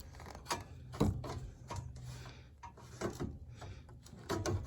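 Handling noise as the pleated filter media of an Aprilaire Space-Gard air cleaner is worked into its frame: scattered clicks and knocks with rustling in between, as the media is pushed to catch.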